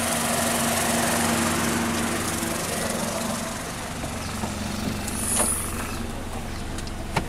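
Chevrolet Captiva SUV engine idling with a steady hum, and a single sharp click near the end.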